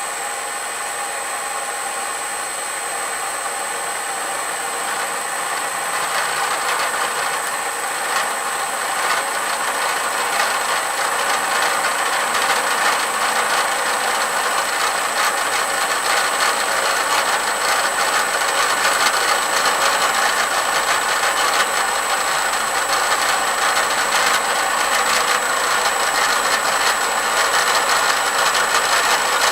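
Bridgeport milling machine running, its four-insert fly cutter facing a steel block dry, without coolant. The cutting starts about six seconds in and grows louder as the cutter takes more of the work.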